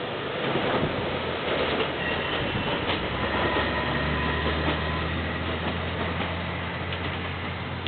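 Nagara 500 series diesel railcar running past: wheels clicking over the rail with the rumble of the car. The diesel engine's low drone comes up about three seconds in and holds steady.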